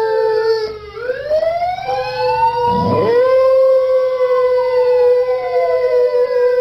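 Dog howling in long held notes that sag and rise in pitch, with a brief low break about three seconds in before the howl steadies again.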